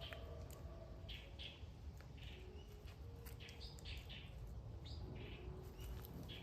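Small birds chirping again and again in short, rough calls, over a low rumble of wind on the microphone.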